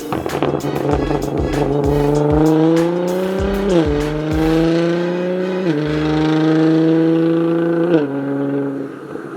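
Nissan GT-R R35's twin-turbo V6 through a Linney drag exhaust, accelerating hard through the gears. The engine note climbs and then drops sharply at three upshifts: about a third of the way in, past halfway, and near the end. A rapid crackle of exhaust pops runs through the first few seconds.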